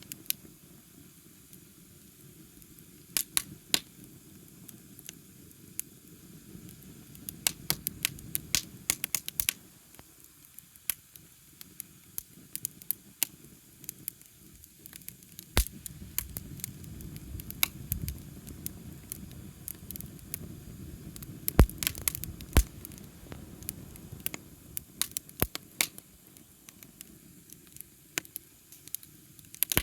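Wood campfire crackling, with scattered sharp pops over a low rushing of the flames that swells and fades; the loudest pops come a little past two-thirds of the way through.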